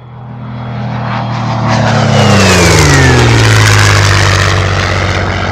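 A propeller aircraft flying past. The engine note swells, drops in pitch as it passes about two to three seconds in, then fades away.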